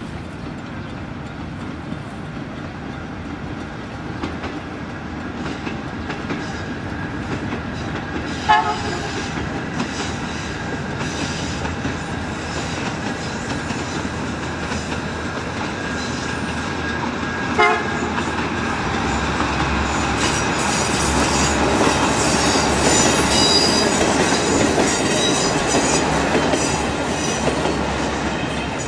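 A train running on the line with wheels clattering over the rail joints, louder over the last third. Two short horn toots come about nine seconds apart.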